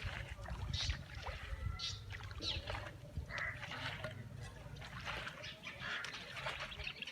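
Irregular splashes and squelches in standing rainwater on waterlogged ground, about one a second, with a low rumble of wind on the microphone.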